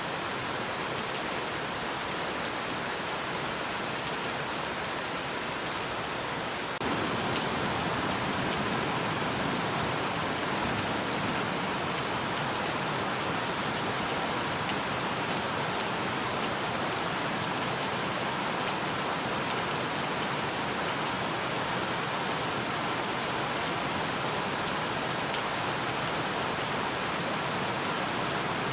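Steady rain falling and pattering on surfaces, an even hiss. It steps up a little louder and fuller about seven seconds in.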